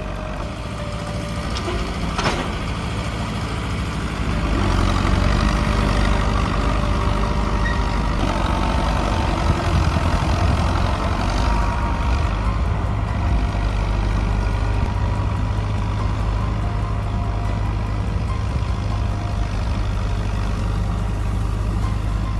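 Heavy vehicle engine running steadily, louder from about four seconds in, with a brief sharp sound a little after two seconds.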